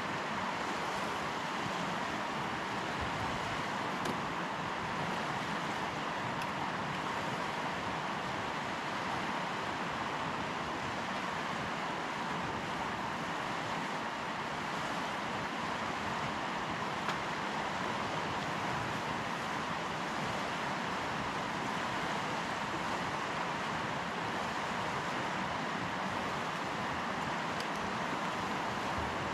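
Steady rushing of river water flowing over rocks, an even unbroken noise with no change throughout.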